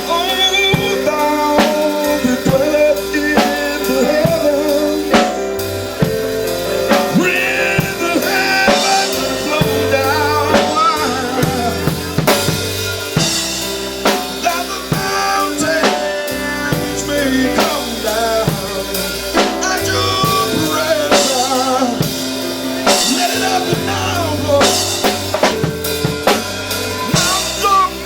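Live gospel music: a drum kit playing bass drum, snare and rimshots over sustained chords that change every few seconds, with a low bass line and a wavering melody on top.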